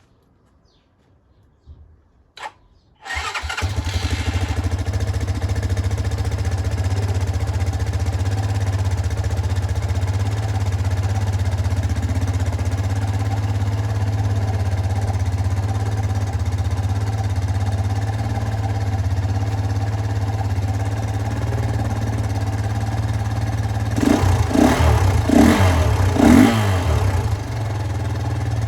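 Jianshe JS200GY 200cc air-cooled four-stroke dirt bike engine starting about three seconds in, after a couple of faint clicks, then idling steadily. Near the end it is revved briefly a few times before settling back to idle.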